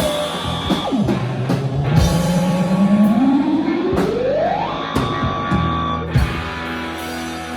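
Live rock band with electric guitar and drums: a long pitch slide rises steadily over about three seconds amid drum hits, then the band holds a ringing chord.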